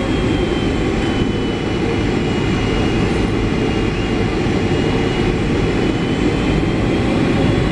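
Steady low rumble of a Boeing 757-300's jet engines and airframe heard from inside the passenger cabin, with a faint high engine whine over it.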